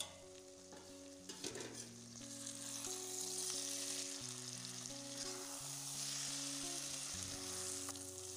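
Sliced potatoes sizzling as they fry and are stirred in a hot pan, the sizzle swelling about two seconds in, with a few clicks of the spatula early on. Soft background music with held notes underneath.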